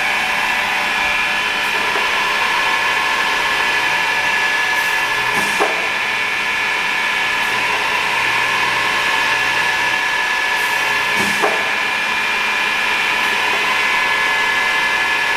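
Pistorius MN-200 double miter saw running with its twin saw motors turning at a steady pitch. Twice, about five and eleven seconds in, the machine is cycled: a brief hiss of air and a short dip in pitch.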